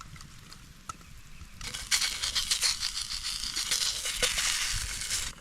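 Plastic packaging crinkling and rustling as it is handled, with many small crackles. It starts about a second and a half in and stops abruptly near the end.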